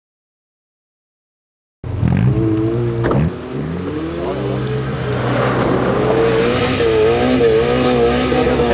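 Dead silence for about two seconds, then an off-road Suzuki 4x4's engine comes in, revving up and down as it works, with a brief knock about three seconds in.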